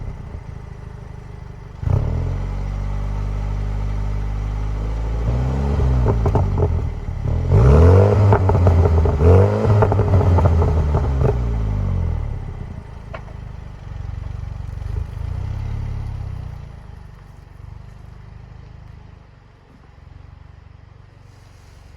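Exhaust of a 2020 MINI John Cooper Works Countryman's turbocharged 2.0-litre four-cylinder, revved while parked. It holds a raised steady note, then gets several quick blips with burbles and pops between about 6 and 12 seconds, and drops back to a quieter idle.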